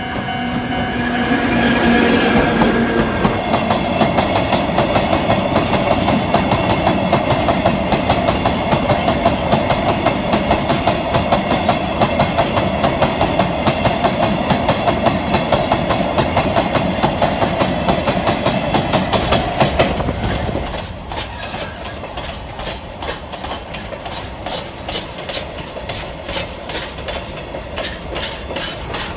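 Empty limestone freight train of hopper wagons rolling through, wheels clicking over rail joints in a rapid, even rhythm, with a steady pitched sound in the first few seconds. About 20 seconds in it gets quieter and the clicks come further apart as the train slows.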